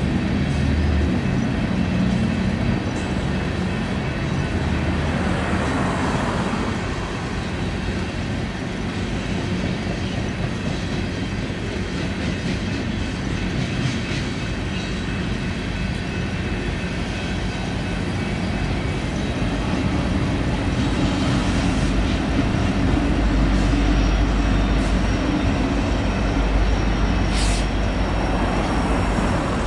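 Loaded coal train rolling past, steel wheels running over the rails in a steady rumble; a deeper low rumble builds in the last third.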